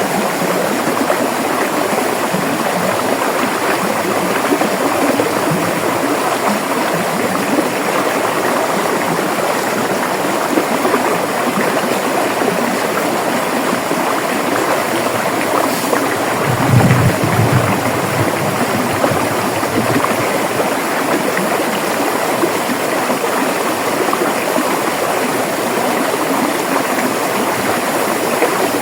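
River water flowing steadily, a continuous rushing and gurgling. A brief low rumble comes a little past the middle.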